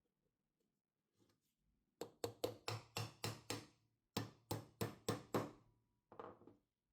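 Light knocking strikes in quick even runs, about five a second: a run of about seven, a short pause, a run of about six, then two more near the end, each with a brief ring.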